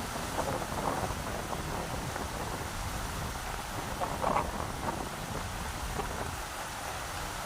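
Rushing river water running steadily, with a short louder, splashier patch about four seconds in.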